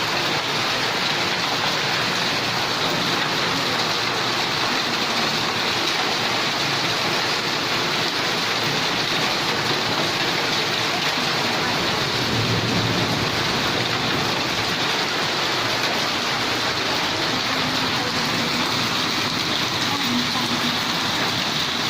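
Steady rain falling, an even hiss of drops. There is a brief low rumble a little past the middle.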